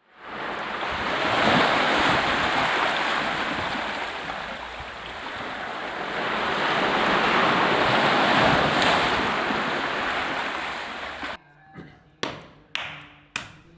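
Surf washing in, swelling and fading twice, that cuts off abruptly about eleven seconds in; then a few sharp strikes, each dying away quickly.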